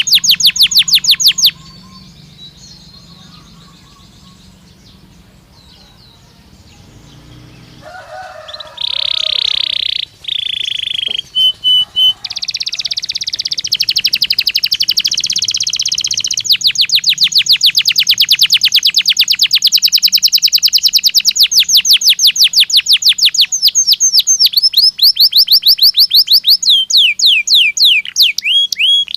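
Belgian canary singing: fast trilled rolls of rapidly repeated high notes. After a short, quieter pause the song picks up, and one long trill runs on through most of the second half.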